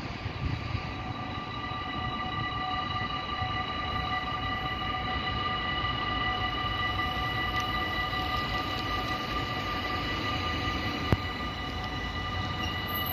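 Dutch AHOB level-crossing warning bells (EBA type) start ringing near the start and keep ringing steadily, heard as a set of held bell tones over a low rumble, signalling an approaching train. A single sharp click sounds about eleven seconds in.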